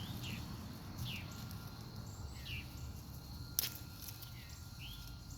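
A bird calling repeatedly outdoors, short downward-sliding chirps about once a second, with one sharp click about three and a half seconds in.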